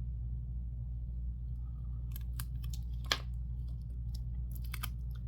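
Light clicks and crinkles of small plastic safety eyes and their packaging being handled, a few scattered ticks over the second half with one sharper click near the middle, over a steady low hum.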